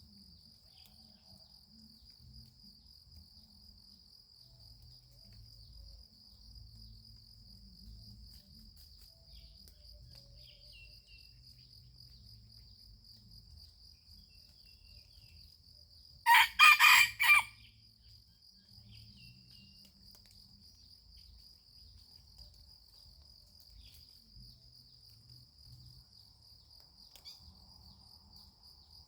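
A rooster crows once, a short crow of about a second near the middle, over a steady high insect trill that runs throughout.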